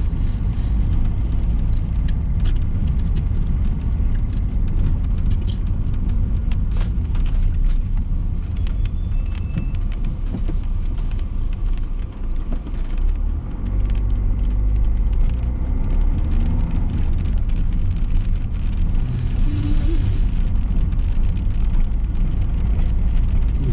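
Car cabin road noise while driving: a steady low rumble from the car's engine and tyres, with many scattered short ticks over it. The rumble eases briefly about halfway through.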